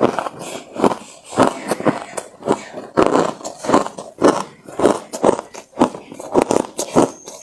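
Close-miked chewing of hard, refrozen crushed ice: a quick run of loud, sharp crunches, about three a second.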